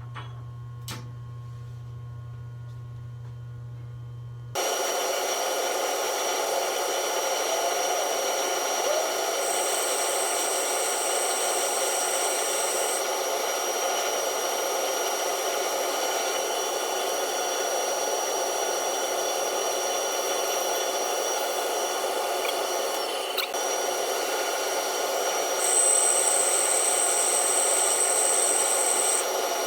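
A low steady hum with a couple of light clicks, then about four and a half seconds in a metal lathe's machining noise starts abruptly and runs steadily with a hiss, a high whine coming in twice for a few seconds each time.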